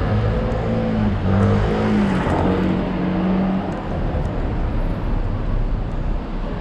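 A motor vehicle's engine running close by: a low steady hum that shifts slightly in pitch and fades after about three and a half seconds, over constant street noise.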